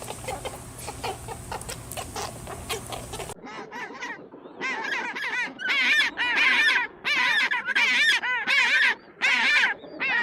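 Geese honking, a run of loud repeated calls that starts abruptly about a third of the way in. Before that comes a noisy stretch of clicks over a low hum.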